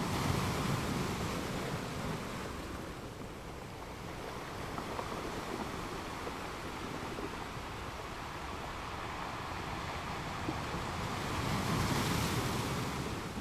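Wind buffeting the microphone over the rush and slap of sea water, a steady noise with no engine tone, swelling near the start and again near the end.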